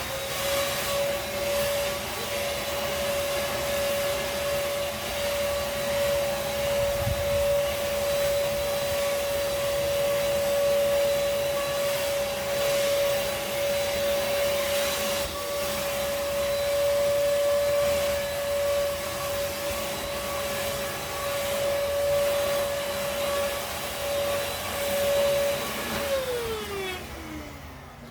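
Vacuum cleaner running: its motor comes up to speed at the start and holds a steady whine over a hiss of suction, then is switched off about 26 seconds in and winds down with a falling pitch.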